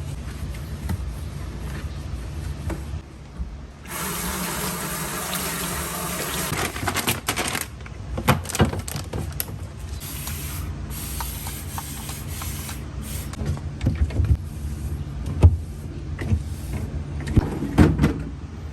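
Water running from a kitchen tap, starting about four seconds in and strongest for the next few seconds, over a steady low hum. Scattered clinks and knocks of kitchen items being handled follow.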